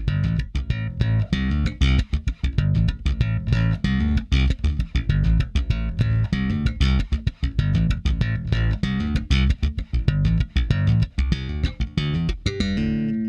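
Electric bass guitar playing a fast riff of plucked notes through a tube-preamp channel-strip plugin. Near the end it settles on one held note that rings out.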